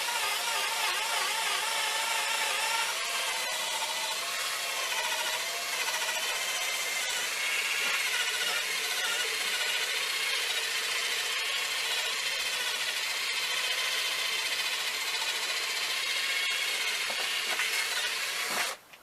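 Drill spinning a wire brush attachment against an old fishing reel, a steady motor whine with wavering pitch over a scratching brush sound. It cuts off abruptly near the end, as the drill's battery runs flat.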